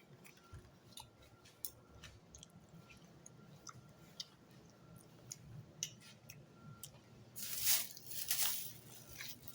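Close-up mouth sounds of someone chewing a gummy Sour Patch candy, with small wet clicks. Near the end there are two louder rustling bursts.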